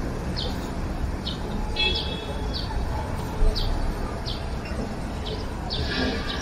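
A bird's short, high, falling chirps repeated about once or twice a second over a steady low rumble, with a brief run of held high notes about two seconds in and a single short thump about halfway through.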